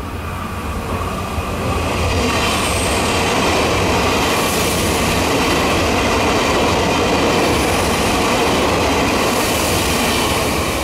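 TEMU2000 Puyuma Express tilting electric multiple unit running through the station without stopping. Its wheel and rail noise swells about two seconds in, holds steady while the carriages pass, and begins to ease near the end.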